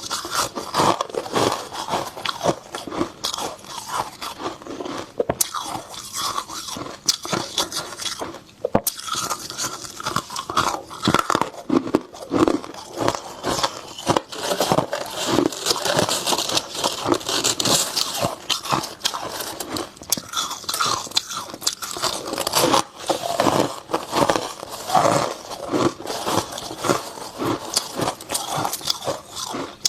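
Close-miked crunching and chewing of dry freezer frost, a dense run of irregular crisp crunches.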